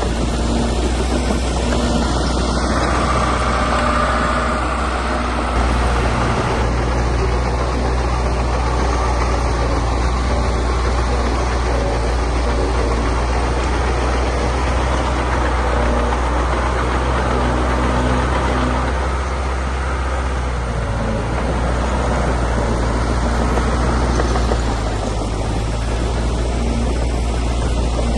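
Heavy earthmoving machinery's diesel engine running steadily, its note shifting a few times as the load changes, about five seconds in and again past twenty seconds.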